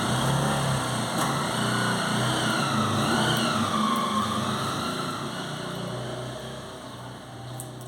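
A motor vehicle engine running steadily, its pitch wavering in the middle, then growing fainter over the last few seconds.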